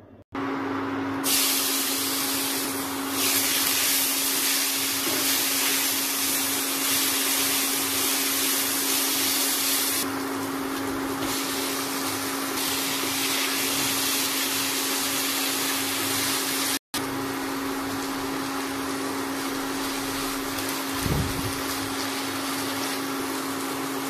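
Spinach and fried onions sizzling in a pan on an induction cooktop: a steady hiss over a constant hum. The sound drops out for an instant about 17 seconds in.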